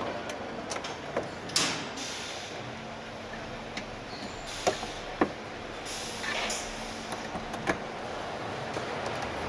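Car assembly plant machinery working: scattered sharp clanks and knocks over a steady background of noise, with short bursts of air hiss about one and a half seconds in and about six seconds in, and a faint steady hum through the middle.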